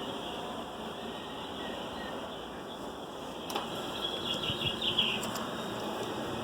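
Model trains running on a layout, a steady rumble. About three and a half seconds in there is a sharp click, then a short run of high chirping squeaks.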